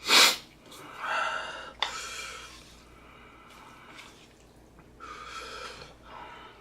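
A man sniffing and breathing hard, reacting to the burn of extra-spicy noodles: a sharp loud sniff right at the start, then hissing breaths in and out about a second in and again near the end.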